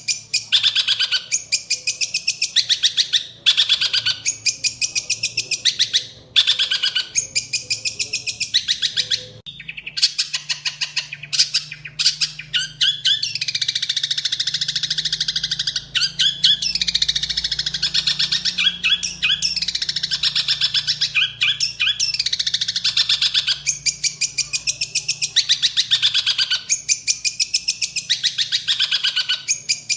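Long-tailed shrike (cendet) singing a fast, harsh chattering song full of mimicked calls, including house-sparrow-like chirps. The notes come in rapid bursts of about a second with short gaps, run almost without a break through the middle with some falling slurs, then break into bursts again near the end.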